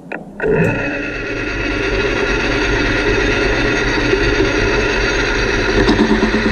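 Metal lathe starting up about half a second in and running steadily, its motor and gearing giving a steady multi-toned hum, while turning a gear blank down to diameter.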